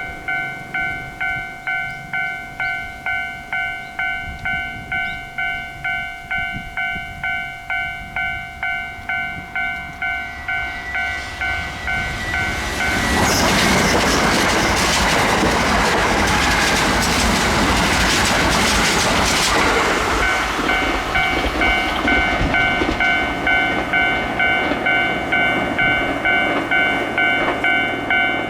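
Level-crossing alarm bell ringing about one and a half times a second. A Kintetsu train comes up from about ten seconds in and passes loudly for several seconds, drowning the bell, then the bell rings on after it has gone.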